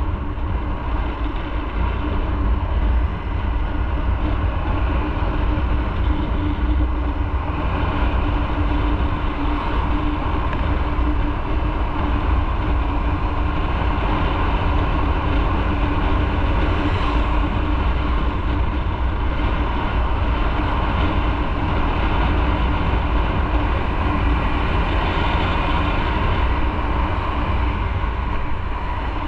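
Motorcycle riding at a steady pace: wind rumbling on the microphone over the engine's steady running and road noise.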